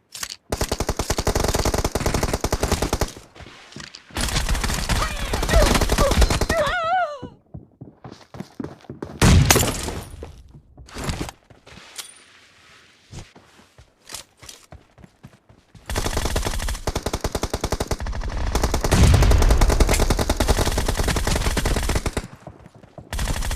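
Automatic gunfire in a shooter video game: long runs of rapid shots lasting a few seconds each, broken by short lulls, the longest run in the last third.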